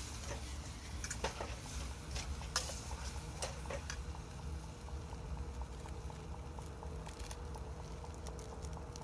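Noodles being stir-fried in a pan over a wood fire: a spatula scraping and clacking against the pan, with several sharp clacks in the first four seconds, over a steady low rumble.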